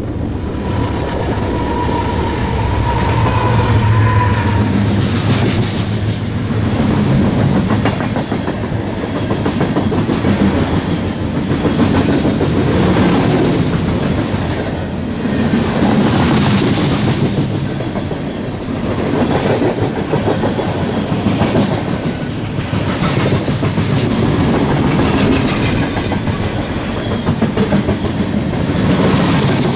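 Freight train rolling past, the wheels of its cars clacking over rail joints in a repeating rhythm, with a brief high whine in the first few seconds.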